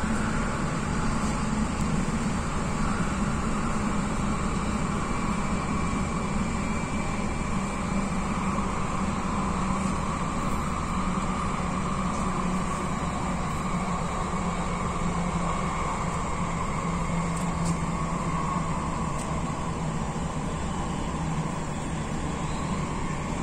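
An MTR Tung Chung line K-Train running at speed, heard from inside the car: a steady rumble of wheels on rail with a hum from the drive, its pitch drifting slightly lower.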